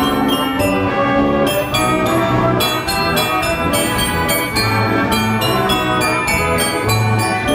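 Wurlitzer Style 157 band organ, built in 1918, playing a tune at a steady loud level.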